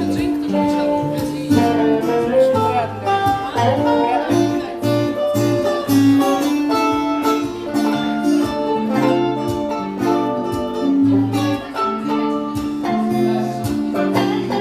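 Instrumental break in a song: guitar playing a melody over bass, with no singing.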